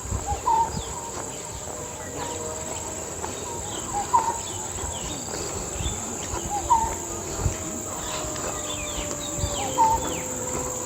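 Tropical woodland ambience: a steady high-pitched insect drone, with a bird giving a short call about every two to three seconds and other faint chirps. Low thumps from walking or handling come and go.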